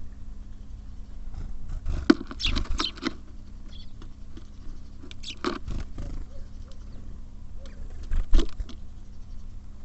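Small birds at a feeder tapping, pecking and landing on it close to the microphone, in clusters of sharp clicks, with a few brief high chirps. A steady low hum runs underneath.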